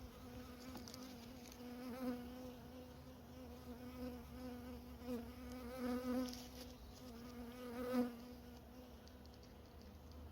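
Honey bees buzzing around an opened hive: a steady hum that swells as single bees fly close past, about two, six and eight seconds in.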